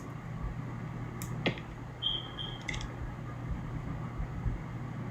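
A few light clicks and taps of craft materials (plastic beads, yarn, paper) being handled while beads are threaded onto a string, with two brief high-pitched squeaks and a faint steady hum behind.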